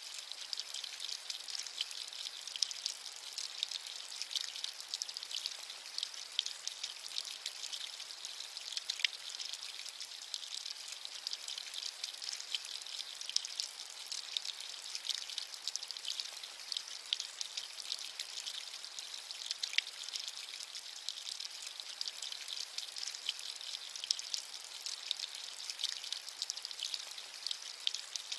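Steady rain, a fine high hiss dotted with many small drop patters.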